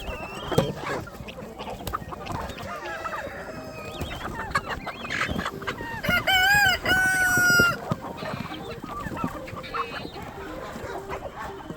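A flock of chickens clucking, with many calls overlapping. About six seconds in a rooster crows loudly for nearly two seconds.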